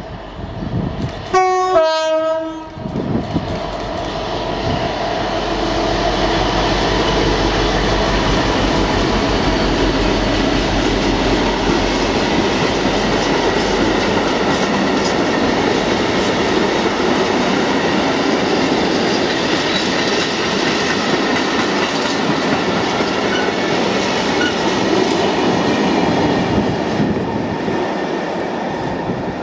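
Colas Rail Class 60 diesel locomotive 60085 sounds its two-tone horn briefly about a second and a half in, a higher note then a lower one. Then its Mirrlees eight-cylinder diesel engine passes close, and a long train of freight wagons runs steadily past on the rails, easing off near the end.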